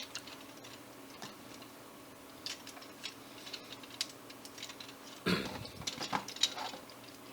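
Plastic parts of a Transformers action figure clicking and tapping as it is handled and manipulated: scattered small clicks, with a quick run of them about five seconds in.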